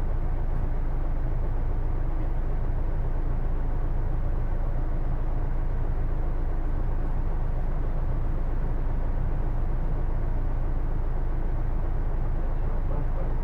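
Hino Blue Ribbon II route bus's diesel engine idling steadily while stationary, heard from inside the cabin.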